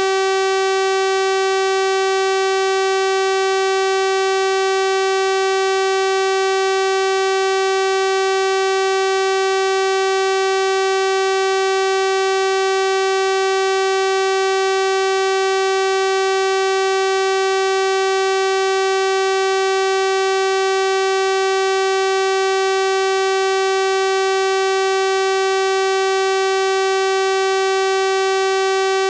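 Synthesized 384 Hz sawtooth-wave test tone, a steady buzzy pitch with a full series of overtones, holding unchanged.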